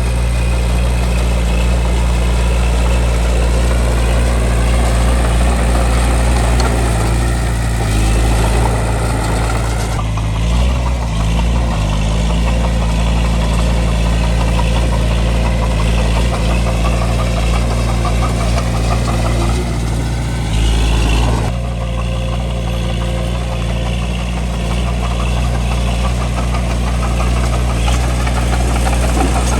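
Bulldozer's diesel engine running steadily under load as it pushes dirt. The tone changes abruptly about a third of the way in and again about two-thirds of the way through.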